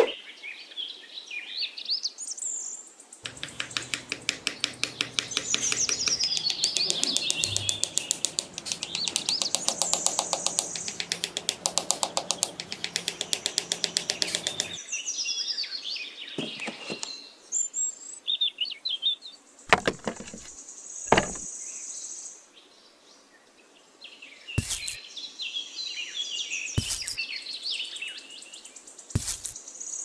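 Birds chirping and twittering, with a long stretch of rapid, even pulsing calls and a few sharp clicks in the second half.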